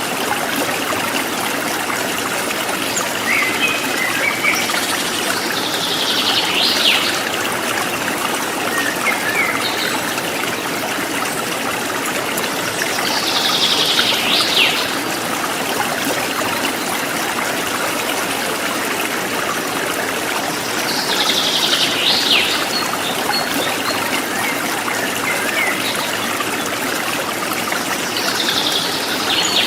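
River water flowing steadily, with a bird giving a short high call about every seven to eight seconds and a few softer chirps in between.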